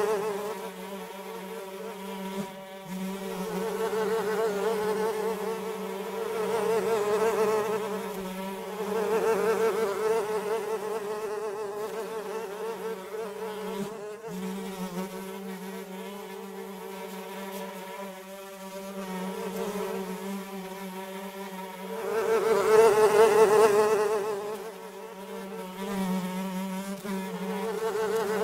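Flies buzzing in flight, a steady droning hum that swells and fades every few seconds as they pass close and move away.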